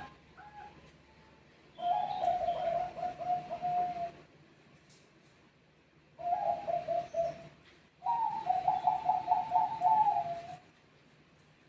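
Zebra doves (Bangkok perkutut) cooing in turn: three phrases of quick rolling notes, the last one higher and longest.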